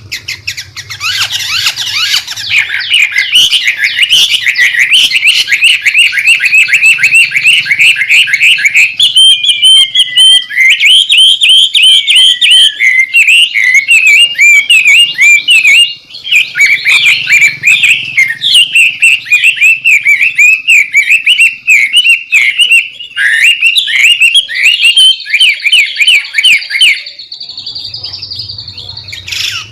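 White-rumped shama (murai batu) singing a long, rapid, busy stream of chattering and whistled notes, broken only by a short pause about halfway through. Near the end it shifts to a steadier, higher trill.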